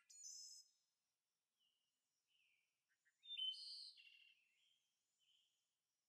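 Faint bird chirping: a short burst of chirps at the start and a louder cluster of chirps about three seconds in.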